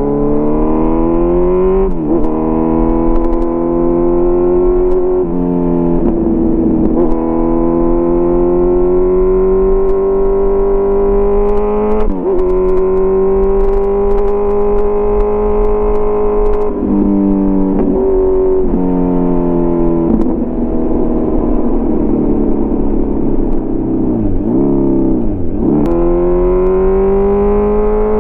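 Kawasaki Z900's inline-four engine through an SC-Project CRT exhaust, accelerating through the gears. The engine note climbs steadily and drops sharply at each shift, several times over. Near the end the revs dip deeply and recover twice.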